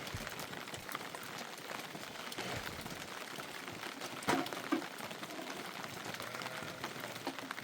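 Steady rain falling, a dense hiss of many small drop impacts. Two brief louder sounds come a little past halfway.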